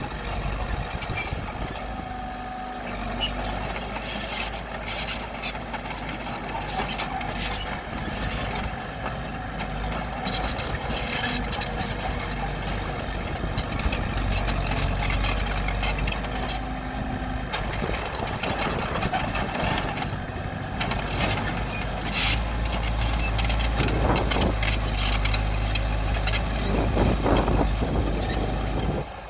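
Bulldozer's diesel engine working under varying load, with repeated clanks and scrapes as rocks are pushed.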